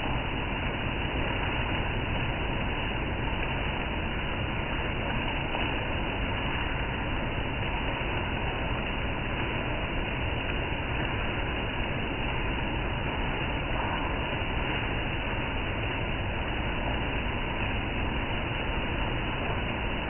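Steady rain falling, an even, unbroken noise with no changes.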